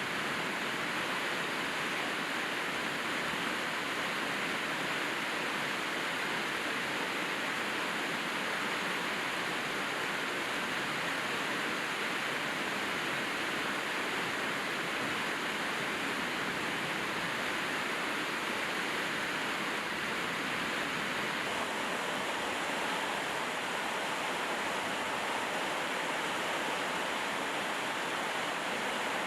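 Rain falling steadily, an even hiss of water with no pauses and no single drops or other sounds standing out.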